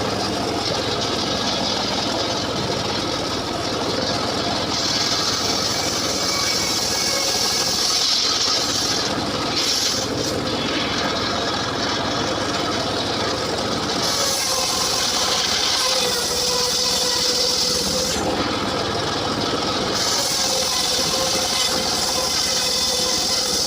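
Homemade engine-driven circular saw ripping a mahogany log: the engine runs steadily while the blade's cutting hiss comes and goes in spells of a few seconds as it bites into the wood.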